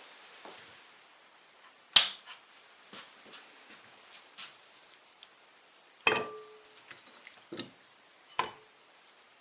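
A few sharp knocks and clatters of hard objects being handled, the loudest about two seconds in. One about six seconds in has a short metallic ring.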